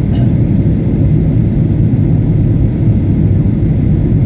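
Steady low roar of a jet airliner's engines and airflow, unchanging throughout.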